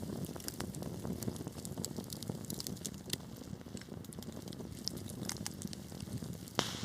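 Wood fire burning in a fireplace: a steady low rumble of flames with frequent small crackles and pops, and one sharper crack near the end.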